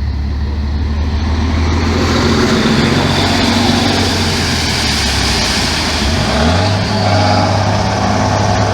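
Off-road trial truck's diesel engine working hard under load. Its note drops briefly about six seconds in, then picks up again a little higher.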